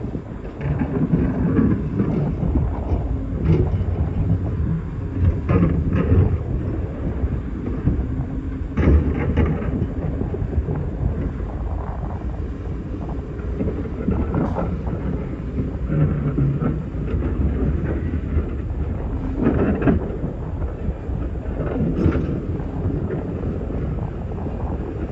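Excavator's diesel engine running steadily under load while digging rock, with the bucket scraping and clattering against stones every few seconds.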